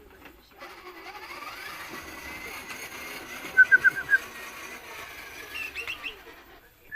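A caged songbird gives a quick run of about five sharp, clipped notes halfway through and a few higher quick notes near the end, over a steady rushing hiss.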